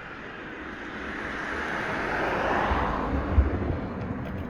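A rushing noise that swells to a peak about three seconds in and then eases off, like a vehicle passing, over a low rumble and wind on the microphone, with one low knock soon after the peak.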